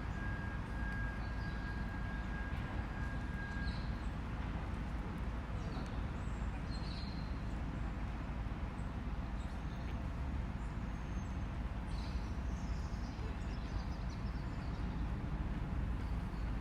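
City park ambience: a steady low rumble of distant London traffic with scattered short bird chirps. A thin steady tone is heard at the start and stops about four seconds in.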